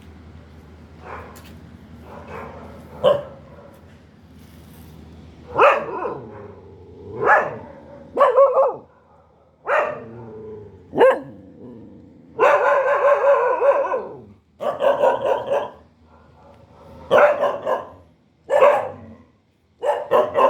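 Dog barking repeatedly at irregular intervals, about a dozen barks, some drawn out into longer calls; the longest lasts nearly two seconds about twelve seconds in.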